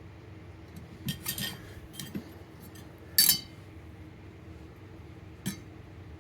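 Light metallic clicks and clinks of a small aluminium wood stove fan and tools being handled while it is adjusted, about half a dozen scattered over several seconds, the loudest about three seconds in.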